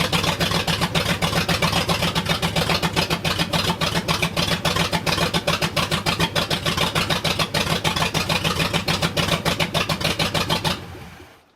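Freshly rebuilt Ford 351M V8 in a 1979 Ford F250 running on one of its first starts, not yet broken in, with a rapid, pulsing exhaust beat; the sound stops near the end.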